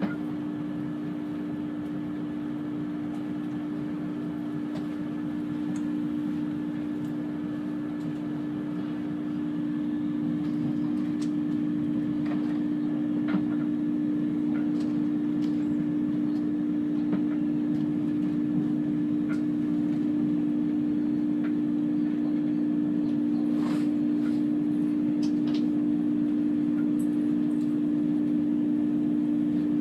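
Chiltern Railways diesel train standing at the terminus with its engine idling: a steady hum carrying two close-pitched droning tones, a faint higher whine and a few faint clicks, growing slightly louder about ten seconds in.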